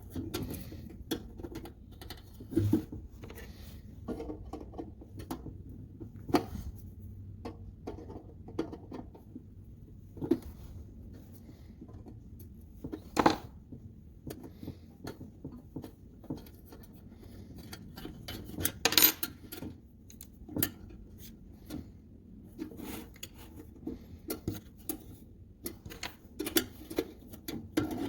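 Irregular clinks, taps and knocks of small metal parts of an antique kitchen scale being handled and set down on a work surface, with two louder clanks about 13 and 19 seconds in.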